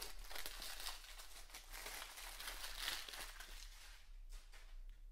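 Packaging of a sneaker-cleaning kit being handled and opened: faint crinkling and rustling with small ticks, dying down about four seconds in.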